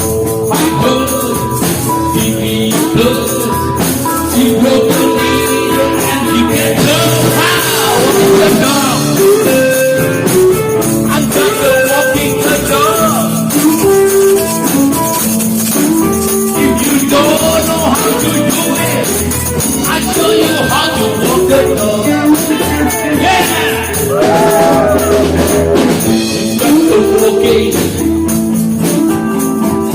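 Band playing an instrumental break of a blues-rock song: guitar over a steady beat with tambourine.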